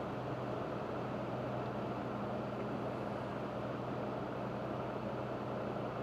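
Steady low engine hum, like a vehicle idling, over even background noise, with no change throughout.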